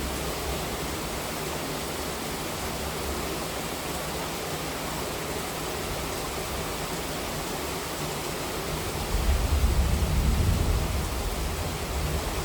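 Steady hiss of heavy rain, with a low rumble of thunder rising about nine seconds in and fading over a couple of seconds.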